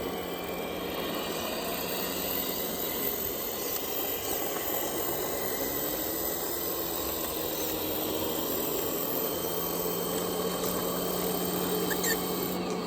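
Electric motor and gearbox of an RC model truck whining, its pitch rising and falling as it speeds up and slows down, over a steady hum.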